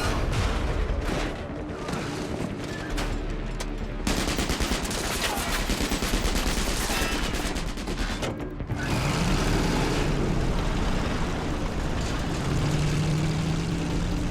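A film action mix of rapid, sustained gunfire, volleys of shots in quick succession, over a low rumble and a musical score.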